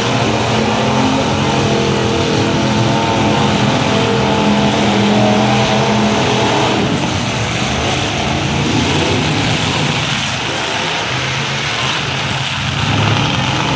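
Several demolition derby cars' engines revving hard together. One strong engine note holds for about the first six seconds, then the sound turns into a rougher mix of engines.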